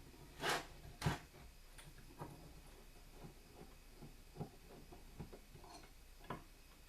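Small metal clicks, taps and a scrape as an old hand plane is worked apart with a flathead screwdriver: a short scrape and a sharper knock in the first second, then scattered light ticks.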